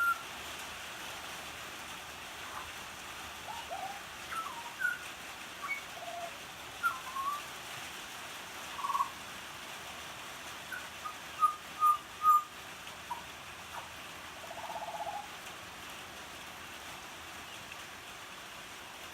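Butcherbird singing: scattered short, clear whistled notes and slurred glides, with a run of three louder notes near the middle, over the steady hiss of falling rain.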